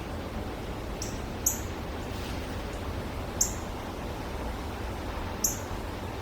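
A small bird giving short, high chirps, three sharp ones about two seconds apart, over a steady low background rumble.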